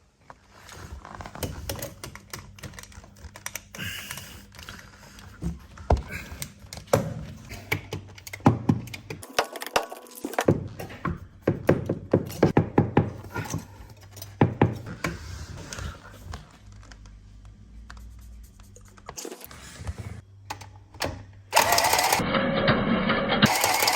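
Scattered clicks and knocks of tools and pipe being handled. Then, near the end, the motor of a Milwaukee C12 12V cordless pipe cutter starts and runs steadily, cutting copper pipe.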